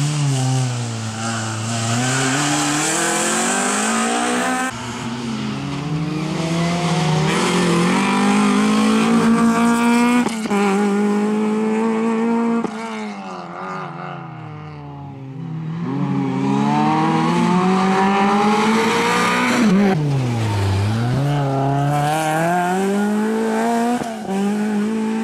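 A Peugeot 306 rally car's engine is revved hard, its pitch climbing as it accelerates and dropping sharply as it lifts off and brakes. It grows fainter for a few seconds past the middle, then comes back loud with another deep drop and climb.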